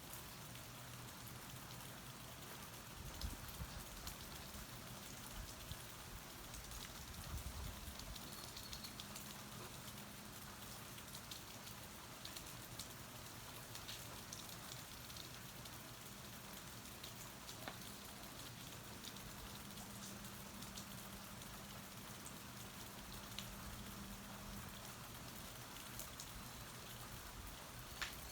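Steady rain falling, with scattered close drops ticking. A few low thumps come about three and seven seconds in, and a sharp tick near the end.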